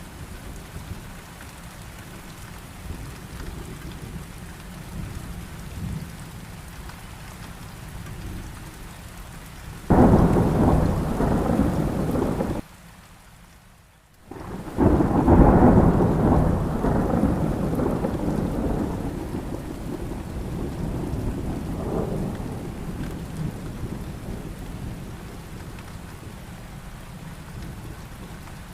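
Steady heavy rain with thunder: a loud clap about ten seconds in that cuts off abruptly, a brief near-quiet gap, then a second loud peal that rumbles and slowly fades back into the rain.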